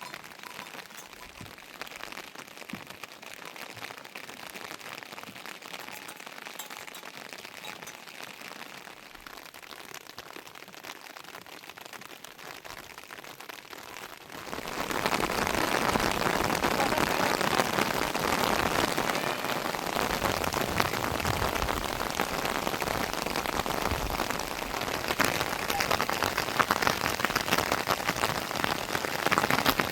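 Rain falling, a steady patter that about halfway through suddenly becomes much louder and denser, like a heavy downpour.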